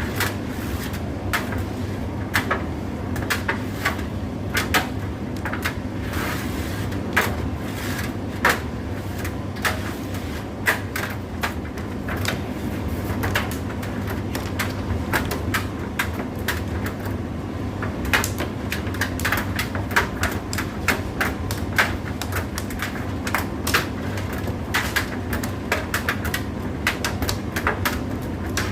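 Indesit IDC8T3 condenser tumble dryer running, a steady low motor hum under a constant stream of irregular clicks and knocks from the load tumbling in the drum.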